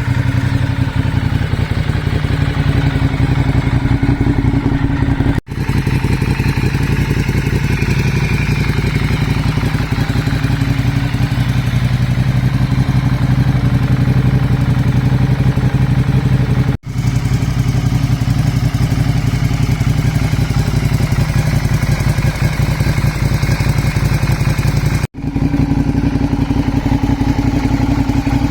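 Ducati Diavel's L-twin engine running steadily through an aftermarket Two Brothers carbon exhaust. The sound cuts out for an instant three times.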